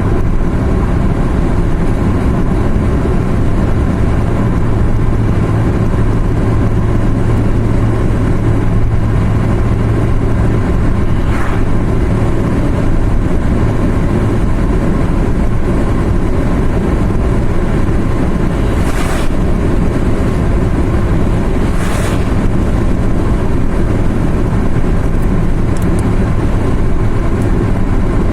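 A car driving along a mountain road: steady engine and tyre noise, with a low hum for several seconds near the start and three short whooshes later on.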